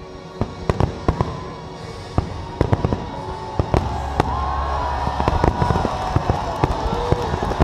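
Aerial fireworks shells bursting in a rapid string of sharp bangs and cracks that come thicker and louder from about four seconds in.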